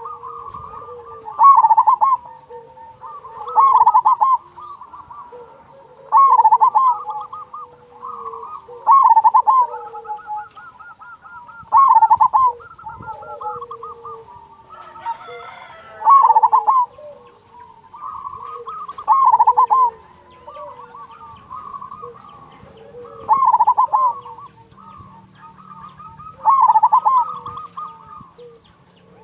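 Zebra dove (perkutut) cooing: a loud rippling, warbled phrase repeated about every three seconds, nine times, with softer cooing in between.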